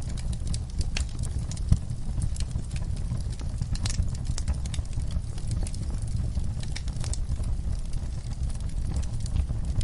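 Fireplace fire crackling: irregular sharp pops and snaps over a low steady rumble, with one louder pop a little under two seconds in.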